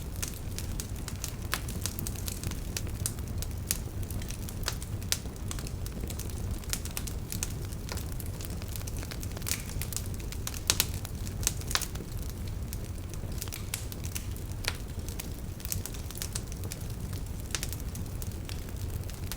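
Wood fire burning with a steady low rumble and frequent irregular crackles and sharp pops, a few louder pops about eleven seconds in.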